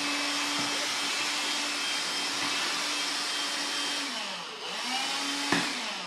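Vacuum cleaner motor running steadily with a hum over a rush of air. About four seconds in its pitch falls, then swings up and down again, with a sharp click near the end.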